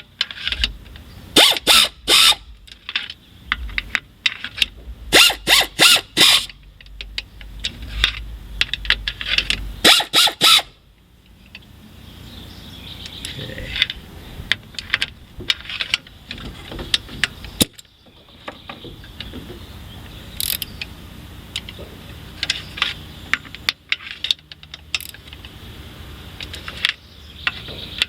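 Pneumatic air ratchet running down the intake plenum bolts in three loud bursts over the first ten seconds, then quieter ratchet clicking as the bolts are snugged by hand.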